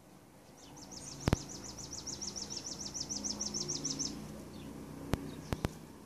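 A songbird singing one long, even trill of quick high notes, about seven a second, lasting about three and a half seconds. A few sharp clicks cut in, one just over a second in and three near the end.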